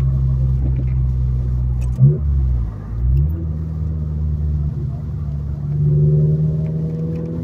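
Mazdaspeed Protege's turbocharged four-cylinder engine and exhaust running under load while driving, its exhaust now free of leaks. About two seconds in the engine note dips and then climbs back higher, and it rises slowly again near the end.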